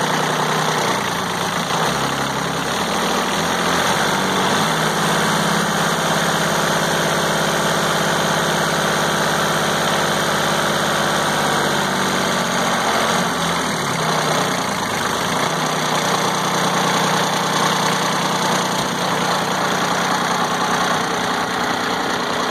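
John Deere 4100 compact tractor's three-cylinder diesel engine running steadily, its engine speed changing briefly about two to four seconds in and again around twelve to fifteen seconds in.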